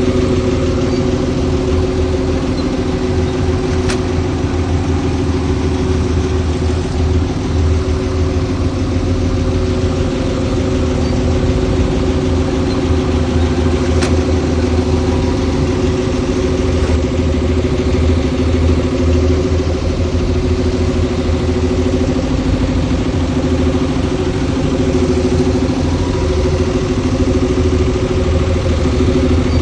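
Diesel engine of heavy earthmoving machinery running steadily at a constant low speed, with two faint clicks about four and fourteen seconds in.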